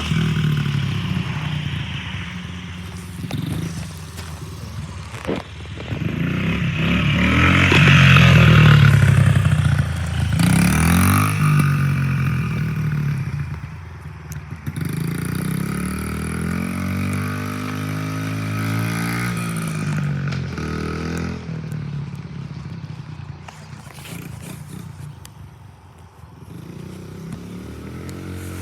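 A small dirt bike engine being ridden, revving up and down. It is loudest about eight seconds in, and its pitch rises and falls repeatedly through the middle. It drops away briefly near the end.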